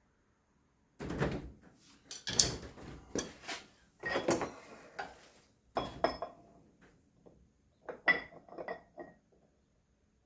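Metal objects clinking and clattering as they are handled: a string of knocks and clinks starting about a second in and dying away near the end, several with a short metallic ring.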